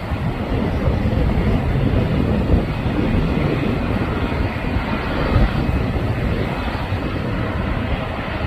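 Jet airliner taking off: a loud, steady rumble of engine noise, heaviest in the low end.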